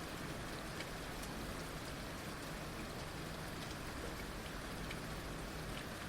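Heavy rain falling steadily, a constant hiss with scattered individual drops ticking on surfaces.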